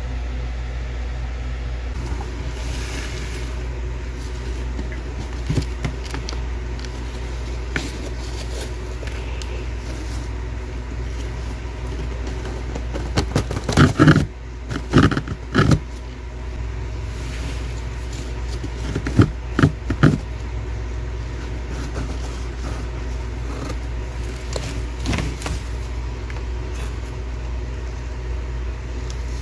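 Thick freezer frost cracking and crunching as it is broken and handled, in two short bursts of sharp crackles about halfway through, over a steady low hum.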